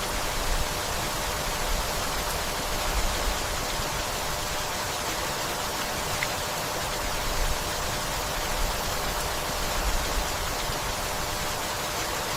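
Steady rainfall: an even hiss with a low rumble underneath.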